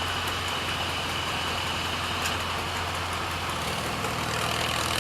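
Farm tractor engine running steadily, with a steady high whine over it.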